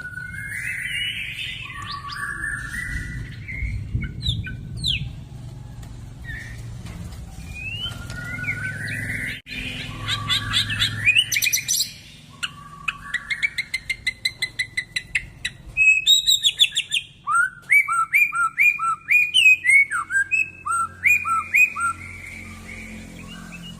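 White-rumped shama (murai batu) singing a loud, varied song of rising whistled phrases. About ten seconds in comes a fast rattling trill, and after that a quick run of repeated chirps. A low hum runs underneath during the first half.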